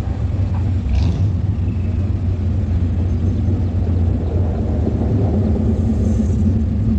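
Micro sprint car engine running steadily at racing speed, a loud low rumble with no break in pitch.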